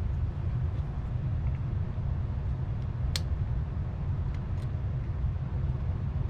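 Steady low rumble with a few light, sharp clicks from small parts being pulled out of a cassette recorder's tape mechanism, the clearest about three seconds in.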